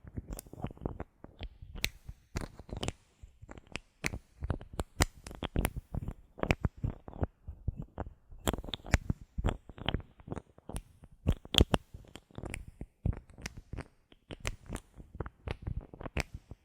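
Bottle caps handled close to the microphone: irregular sharp clicks and taps, several a second, with brief pauses.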